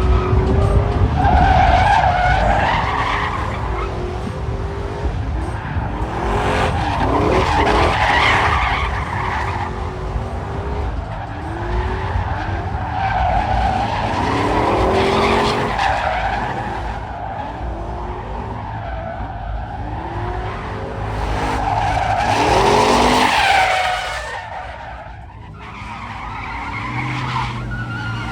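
Car engines revving hard with tyres squealing and skidding, in waves that build and fade every several seconds, typical of cars drifting or doing burnouts.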